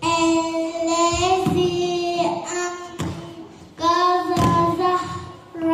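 A child's voice singing a song in long held notes, phrase after phrase, with a low thump about every second and a half.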